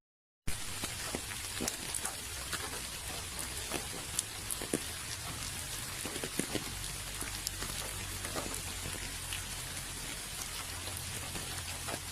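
Steady rain, with individual drops tapping in a continuous hiss. The sound cuts out to dead silence for about half a second at the very start, then comes straight back.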